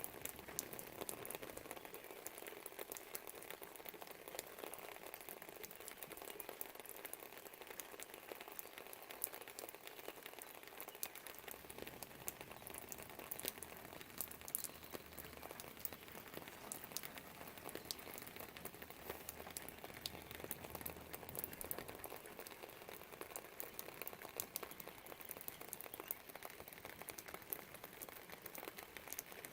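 Rain falling in a steady fine crackle of drops. From about a third of the way in until about three-quarters through, a low rumble sits underneath.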